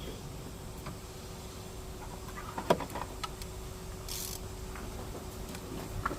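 Low background rumble with a faint steady hum, broken by a few small clicks and one sharper knock about two and a half seconds in, and a brief hiss a little after four seconds.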